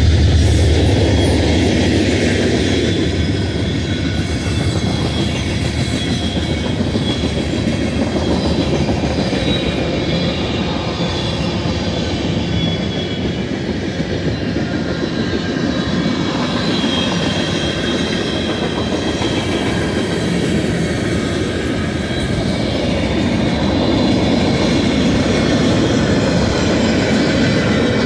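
Freight cars of a BNSF manifest train rolling past close by: a steady rumble and clatter of steel wheels on the rails, with faint high wheel squeal at times. The low engine hum of the just-passed locomotives dies away in the first second.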